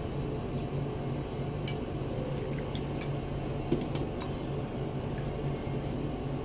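Grapes being washed by hand in a bowl of water: light sloshing, with a few small clicks and taps against the container.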